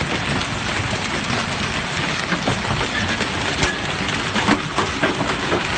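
Heavy hailstorm with tennis-ball-sized hailstones: a steady dense hiss of falling hail, broken by many sharp knocks of stones striking hard surfaces, a few louder ones near the middle and toward the end.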